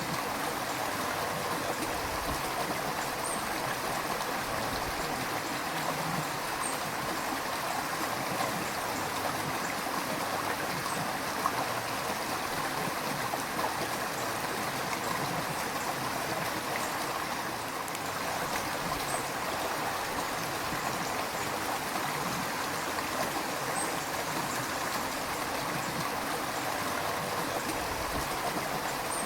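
River water flowing steadily, a continuous rushing and gurgling with faint small splashes.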